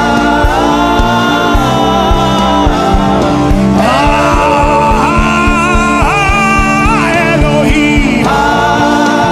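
Gospel worship music: a voice sings long held and bending notes over a band with a steady drum beat.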